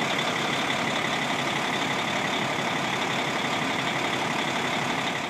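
Caterpillar diesel engine of a 1996 Ford B750 truck idling steadily, with a faint steady whine over the engine noise.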